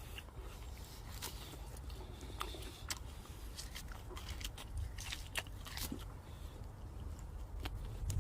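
A person biting and chewing grilled pork ribs, with scattered sharp clicks and crunches from the meat and bone.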